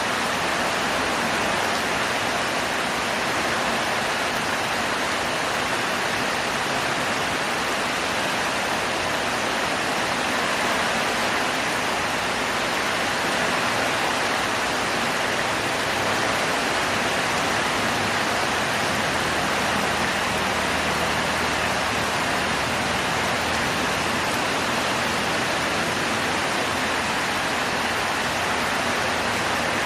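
Heavy rain falling steadily, an even downpour without let-up.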